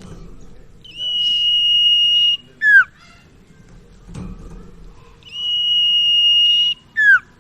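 Common iora (sirtu/cipaw) calling twice. Each call is a long, steady, high whistle held for about a second and a half, followed by a short note that slides sharply downward.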